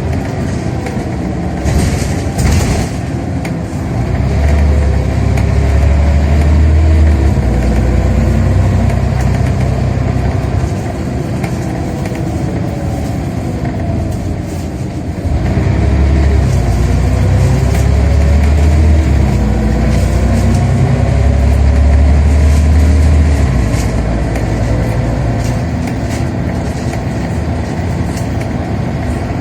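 Scania Omnicity bus engine and ZF automatic gearbox heard from inside the bus, pulling hard twice with the engine note rising and falling through gear changes, easing off in between and near the end.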